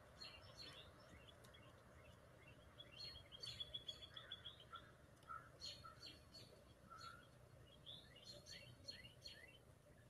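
Small songbirds chirping faintly at a feeder: scattered short high chirps throughout, with a quick trill about three seconds in, over a low steady background hum.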